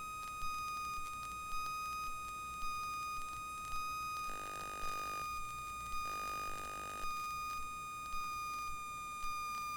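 Quiet electrical noise on a Cessna 172's headset intercom line: a steady high whine with a faint tick about once a second, and two buzzy tones about a second long in the middle.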